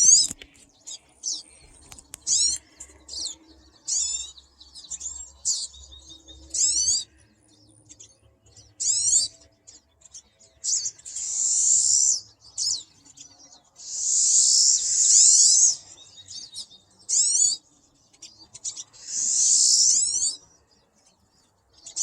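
Pine siskins calling from a tree: a string of short, high, sweeping chirps, with three longer buzzy calls in the second half.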